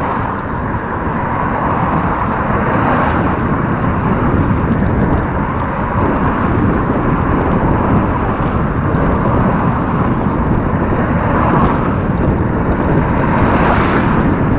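Steady rushing of wind on the microphone and road noise from a bicycle riding on asphalt, with two brief swells, about three seconds in and near the end.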